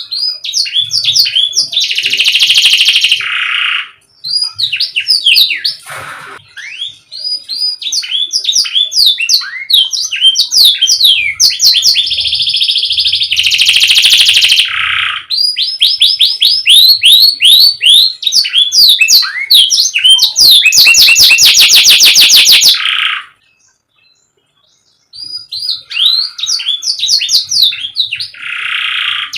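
Domestic canary singing: quick rolls of repeated rising whistled notes, then a very fast rattling trill, a short pause about three-quarters of the way through, and the song starting again.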